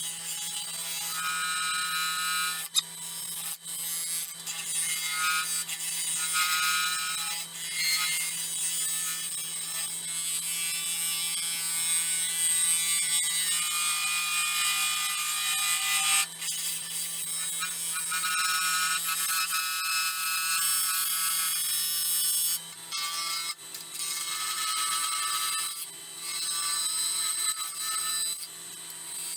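Wood lathe spinning a pecan-shell and epoxy resin blank while a gouge cuts across its face to flatten it: a steady motor hum under a continuous scraping hiss, with high whining tones that come and go as the tool bites.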